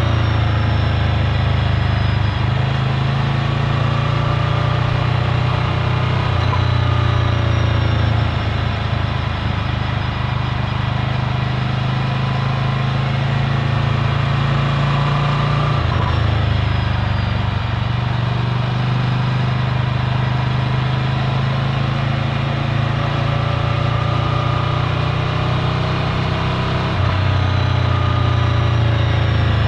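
Ducati Scrambler Full Throttle's air-cooled L-twin engine running through its Termignoni exhaust. The engine note rises and falls gently, with abrupt changes in throttle about midway and near the end.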